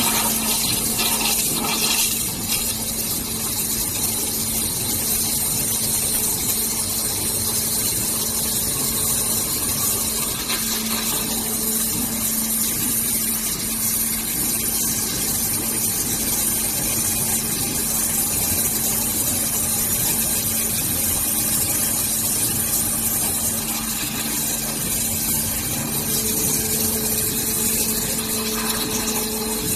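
Hualong HLRC-3020 5-axis CNC waterjet cutting machine running: a steady high hiss over a constant hum from its high-pressure pump, with a higher tone joining in near the end.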